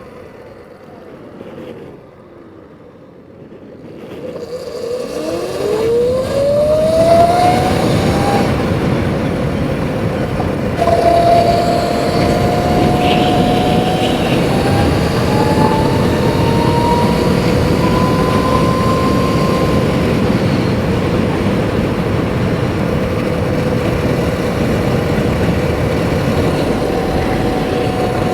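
Sur-Ron electric dirt bike's motor whining down as the bike slows, then a rising whine as it pulls away about four seconds in. It then cruises with a steady whine over wind and road noise.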